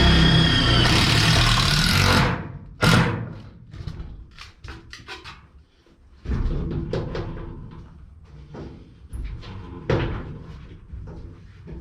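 Power drill driving self-tapping screws into the sheet-metal wall of a shed. The drill runs loudly for about two seconds, briefly again near three seconds, and once more around six seconds in, fading away, with metallic knocks and clicks between the runs.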